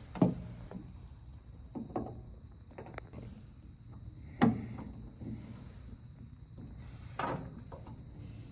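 Scattered clicks and knocks of hand work on a tailgate latch and its cable, about five in all, the loudest about four and a half seconds in.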